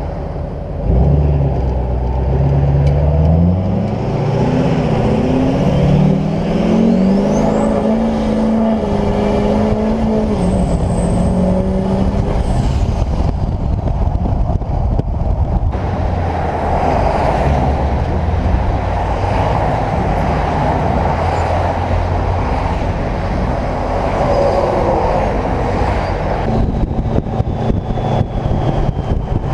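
Twin-turbocharged LLY Duramax V8 turbodiesel pickup under a hard pull through a straight-piped 5-inch exhaust: the engine note climbs steadily for several seconds, with a high turbo whistle that rises and holds. It then settles to a steady drone.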